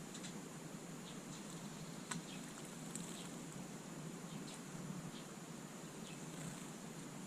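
Small birds at a garden bird bath: scattered short, faint high chirps and small ticks over a steady hiss, with one sharper tick about two seconds in.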